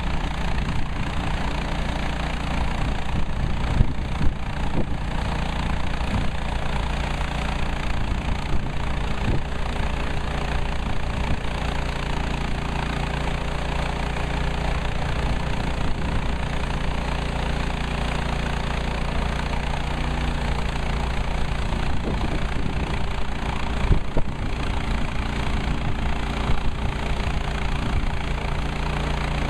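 Woodland Mills HM130MAX portable band sawmill's gasoline engine running steadily, with a few short knocks.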